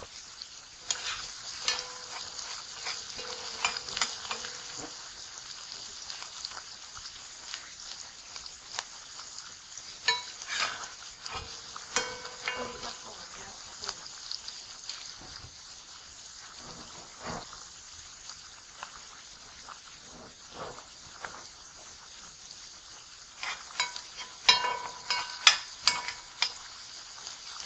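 Chopped pimento peppers and onions frying in hot vegetable oil in a pot, a steady sizzle with scattered crackles. Near the end a spoon stirs them, clinking and scraping against the pot.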